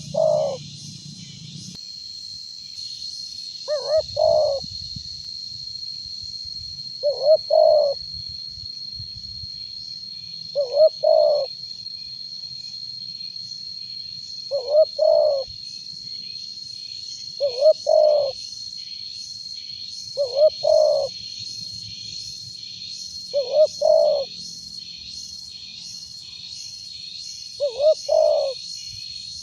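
Spotted dove cooing: a short phrase of two or three coos, repeated about every three to four seconds. Insects keep up a steady high trill and pulsing chirps behind it.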